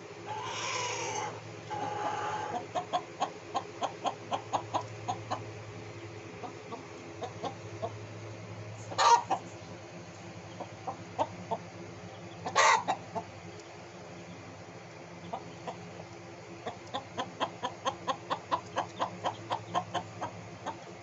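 Chickens clucking in runs of short, quick clucks, about four a second, with a few single louder calls and a couple of longer calls near the start.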